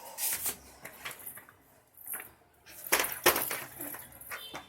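Vacuum cleaner parts and packaging being handled during unboxing: a series of irregular knocks and clatters with rustling, the loudest about three seconds in.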